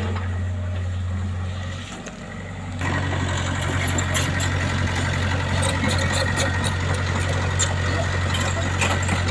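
Engine running steadily, briefly dropping about two seconds in, then louder from about three seconds in with a rattling, clattering noise over the hum.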